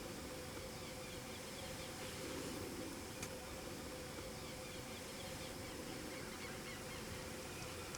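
Faint outdoor ambience: small birds chirping softly over a steady low hum, with a single click about three seconds in.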